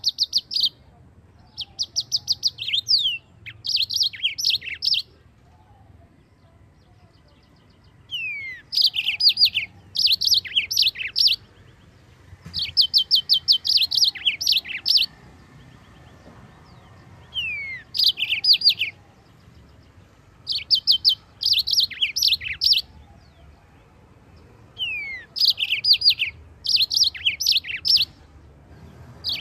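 Yellow-fronted canary (Mozambique canary) singing: short, rapid phrases of repeated high chirping notes mixed with down-slurred whistles, with brief pauses between phrases and a few seconds' silence twice.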